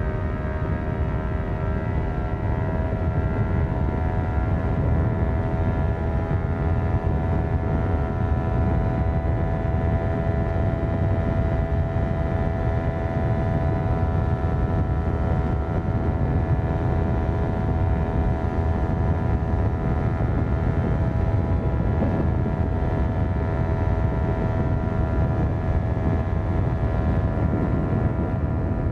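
Kawasaki Ninja 400's parallel-twin engine through a Yoshimura exhaust, heard from the rider's position while cruising at a steady speed. The engine note climbs slightly over the first several seconds and then holds even, over a steady low rumble of wind and road noise.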